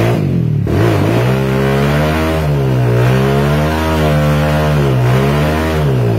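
Yamaha DT125 two-stroke single-cylinder trail bike engine revving hard under load, its pitch rising and falling in surges about once a second, as the bike is worked through mud.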